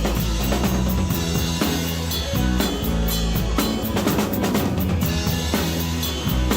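Live rock band playing, with the drum kit to the fore: kick drum and snare beating a steady rhythm under bass and guitars.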